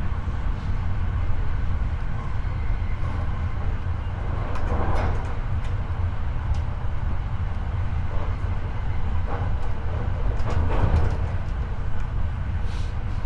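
Running sound of a Hankyu 8300 series electric train heard from the floor of a car above its bogie: a steady low rumble of wheels on rail at speed, with a few scattered knocks and rattles, the clearest about five seconds in and again near eleven seconds.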